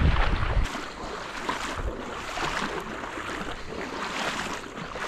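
Wind buffeting the microphone for the first moment, then water splashing and sloshing in a loose rhythm of about two a second, like steps wading through a shallow creek.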